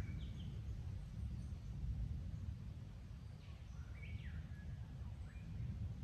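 A few short bird chirps that sweep in pitch, the clearest about four seconds in, over a steady low rumble.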